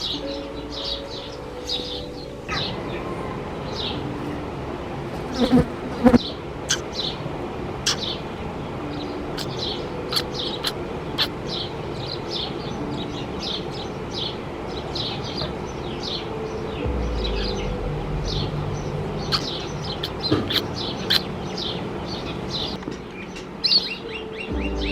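Sparrow chirping over and over in short, high chirps, several a second. A steady low hum runs underneath, and there are two louder knocks about six seconds in.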